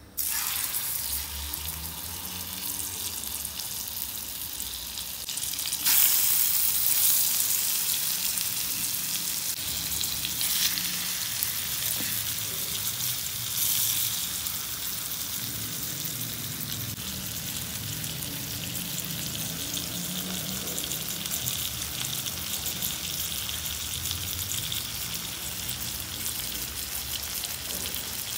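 Seasoned raw chicken pieces sizzling in hot oil in a frying pan, a steady hissing sizzle that jumps sharply louder about six seconds in, with smaller surges a few seconds later.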